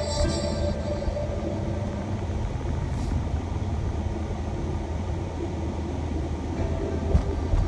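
Steady engine and road rumble heard inside a moving shuttle van's cabin, with one short knock near the end.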